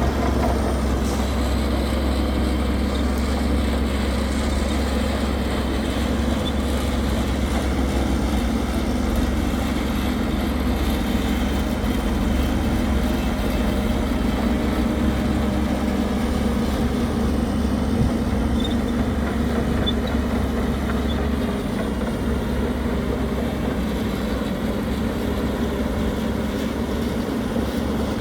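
Heavy construction machinery's diesel engine running steadily, a deep continuous rumble.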